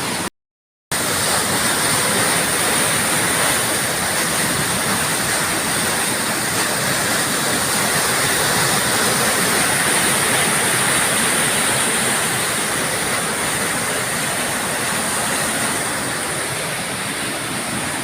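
River water rushing over a dam in a steady, loud, even wash of noise. A brief silent gap about half a second in interrupts it.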